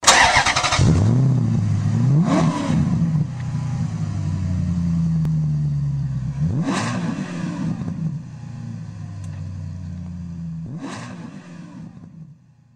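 A car engine accelerating hard through several gear changes, its pitch climbing again after each shift, about 2, 7 and 11 seconds in. Loudest at the start, it fades away near the end.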